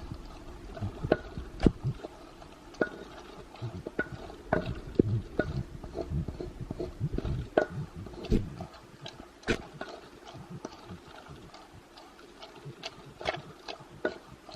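Papaya salad being prepared by hand: irregular clicks, taps and light knocks of utensils and ingredients, thicker in the first half and sparser later.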